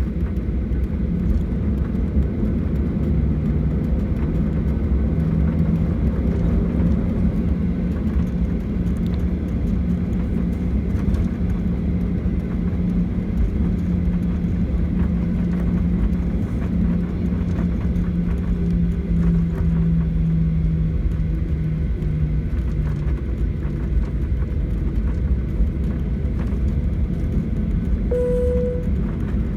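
Cabin noise inside a Boeing 737-800 climbing after takeoff: the steady low rumble of its CFM56 engines and the airflow. A low hum rises slightly and fades about three-quarters of the way through, and a short repeated tone sounds near the end.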